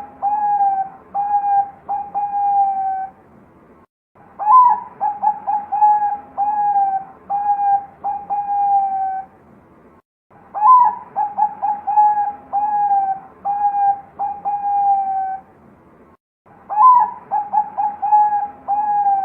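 Zebra dove (perkutut) of the Thai-bred Bangkok song type, cooing loud and clear. Each phrase lasts about five seconds: a sharp rising opening note, a quick run of short coos, then three or four longer coos. The phrase is repeated three times with pauses of about a second.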